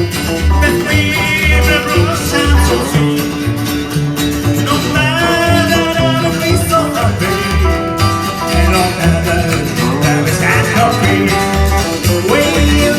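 Live band playing: drums with a steady kick beat under bass and guitars, with a melodic lead line over them.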